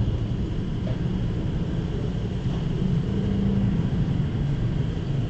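Motorcycle engine running steadily under a low rumble.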